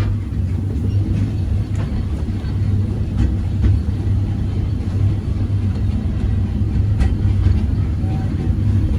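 Walt Disney World Railroad narrow-gauge train rolling along the track, heard from aboard: a steady low rumble with a few scattered clicks from the wheels and rails.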